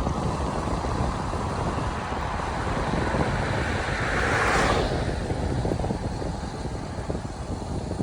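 Wind rumbling on the microphone of a moving bicycle, with a vehicle passing that swells to a peak about four and a half seconds in and then quickly fades.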